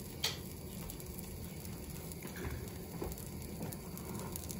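Food with kaşar cheese frying in hot oil in a pan, a steady low sizzle, with one sharp click just after the start.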